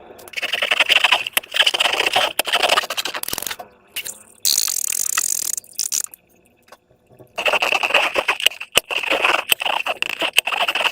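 Slime being squeezed and worked by hand, giving wet crackling and clicking in two long spells, with a short hiss between them.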